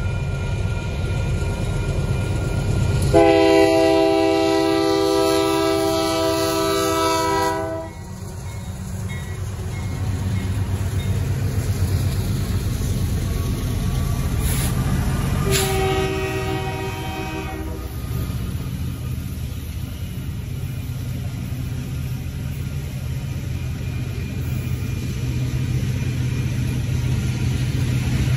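Union Pacific freight train's diesel locomotives passing through a grade crossing over a steady low rumble. The locomotive horn sounds one long blast about three seconds in, lasting some four seconds, and a second, shorter blast around fifteen seconds in. Near the end, loaded freight cars roll past.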